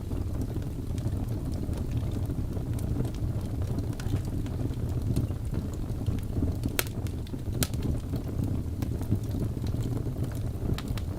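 Wood fire burning in a fireplace: a steady low rumble with scattered sharp crackles and pops, two of them louder about seven and eight seconds in.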